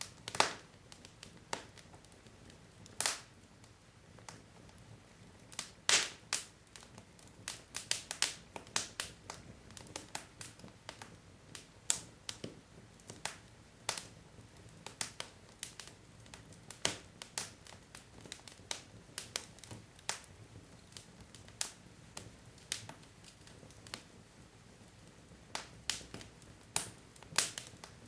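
Burning wood logs crackling in a fireplace: irregular sharp pops and snaps, a few louder ones standing out, over a faint low hiss.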